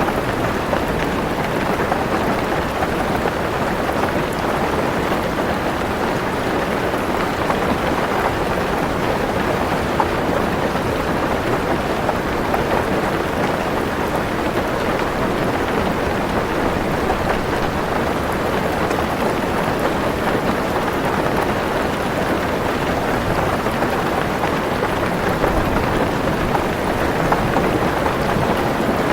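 Heavy rain drumming steadily on a car roof, a dense even patter with no breaks.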